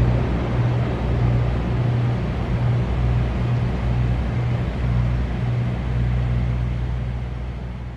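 CSX freight train passing, with a steady low diesel drone over the rolling noise of the cars, fading away near the end.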